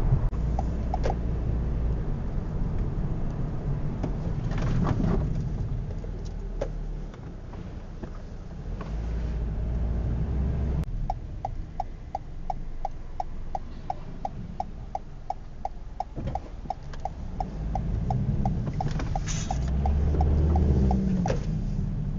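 A car driving, with a steady low engine and road rumble heard from inside the vehicle. From about halfway through, a regular ticking runs at about three ticks a second.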